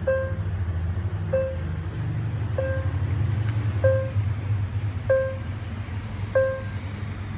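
Railway level-crossing warning bell ringing, one ding about every second and a quarter, six strikes in all, over a steady low engine rumble.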